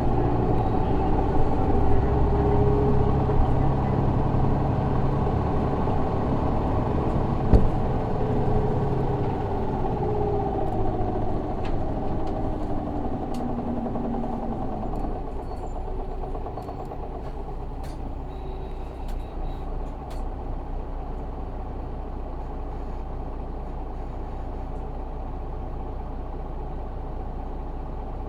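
Isuzu Erga city bus's 6HK1 diesel engine heard from inside the cabin, pulling with its note rising and falling for the first half, with one sharp knock about seven and a half seconds in. About halfway through it drops to a quieter, steady idle.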